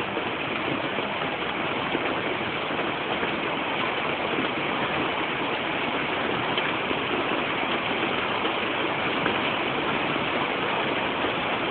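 Heavy rain pouring down in a steady, even hiss, heard through a basic mobile phone's microphone that cuts off the highest sounds.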